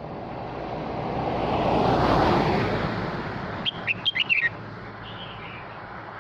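A male red-whiskered bulbul sings a short, quick run of about six sharp notes about four seconds in, calling to its flock. Before it, a broad rushing noise swells and fades.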